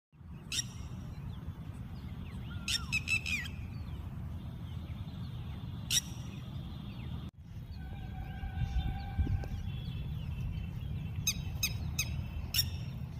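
Red-wattled lapwing calling: sharp, high calls, some single and some in quick runs of three or four notes, over a steady low noise.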